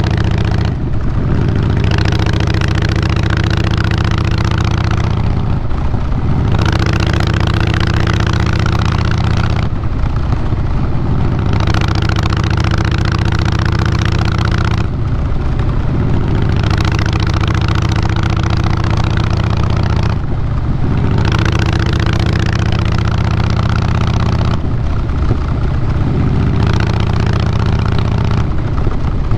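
Harley-Davidson Fat Boy Lo's air-cooled Twin Cam 96B V-twin running through Vance & Hines Big Radius 2-into-2 pipes, a steady deep exhaust. Every four to five seconds the sound briefly eases and the engine note shifts, as when the throttle is rolled off between gears.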